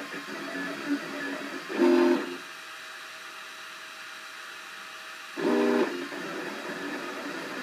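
Cubify 3D printer's stepper motors whining in pitched tones as the print head moves. There are two louder bursts of tone, about two seconds in and again about five and a half seconds in, with a quieter, steadier tone between them.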